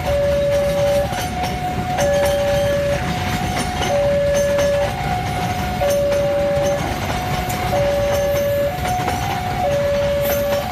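Railway level-crossing warning alarm sounding its alternating two-tone signal, each tone lasting about a second. Under it are the rumble and wheel clicks of a passing passenger train.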